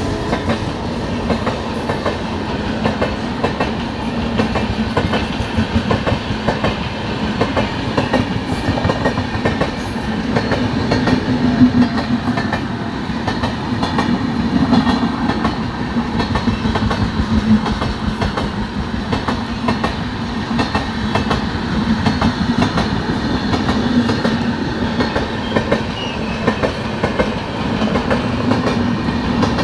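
Passenger coaches of a departing express train rolling past close by, with a steady clatter of wheels over the rail joints and a continuous rumble.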